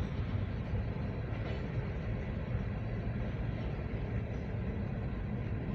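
Freight cars of a Norfolk Southern local train rolling past, a steady low rumble of steel wheels on the rails.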